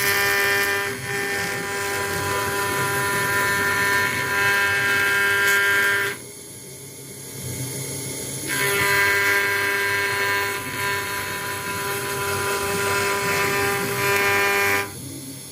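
CNC router spindle running and cutting into an acrylic sheet, a steady high whine with several held tones. The whine drops away for about two seconds around six seconds in, comes back, and falls off again near the end.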